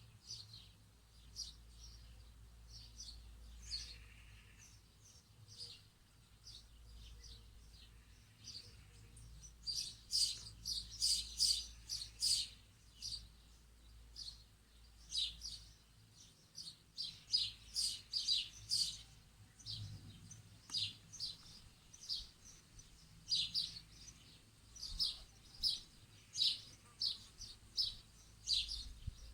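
Small birds chirping: short, high chirps in quick runs, busiest about ten to thirteen seconds in, again around seventeen to nineteen seconds and near the end. A faint, steady low hum lies underneath.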